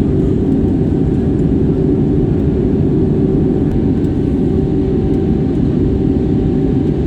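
Steady, unchanging drone of a Wizz Air Airbus A320-family airliner's jet engines, with a few constant tones over a deep rumble.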